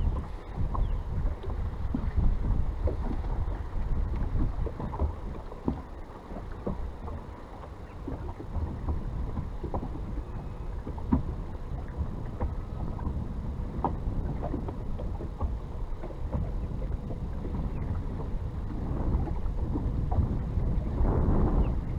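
Strong wind buffeting the microphone in a gusting rumble, with small waves slapping and ticking against the hull of a bass boat.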